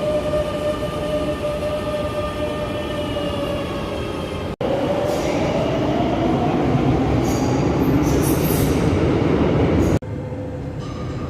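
Madrid Metro trains' electric traction motors whining: first a steady whine, then, after an abrupt cut, another train's whine rising in pitch with brief high wheel squeals. Another abrupt cut comes near the end.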